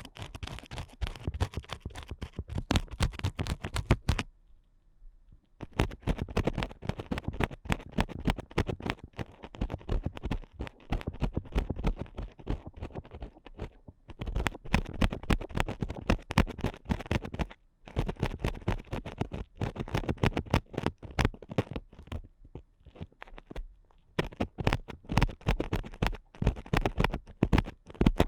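Ear picks scraping and scratching inside an ASMR binaural microphone's ear, in fast runs of short rasping strokes broken by a few brief pauses.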